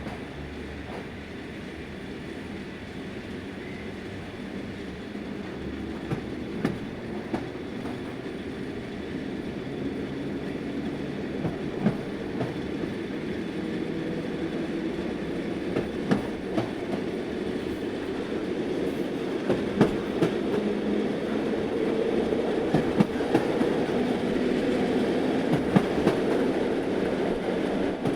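Vande Bharat Express train running on the rails, its wheels clicking irregularly over rail joints and points over a steady rumble. The sound grows steadily louder throughout, as the train gathers speed pulling out of the station.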